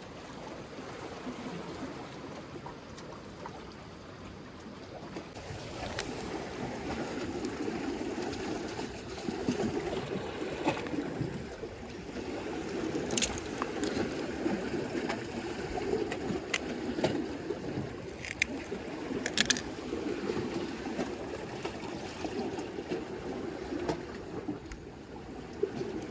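Water sloshing and lapping against a breakwater, a steady rushing noise that grows louder about six seconds in, with several sharp clicks and taps in the second half.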